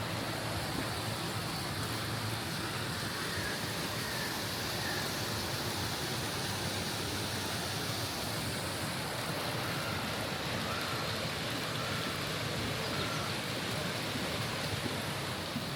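Steady rushing of a mountain stream, an even, unbroken wash of water noise.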